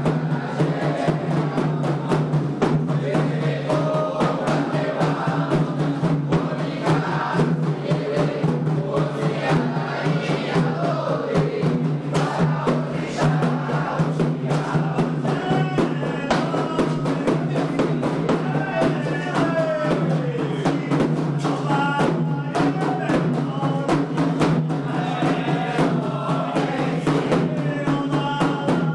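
Candomblé sacred songs for Xangô: a group of voices singing call-and-response over steady, fast hand-drum strokes from atabaque drums.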